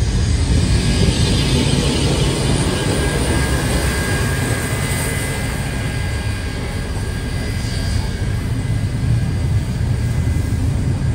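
Steam-hauled heritage passenger train rolling past close by: a steady rumble of wheels on rail, with a faint high squeal partway through.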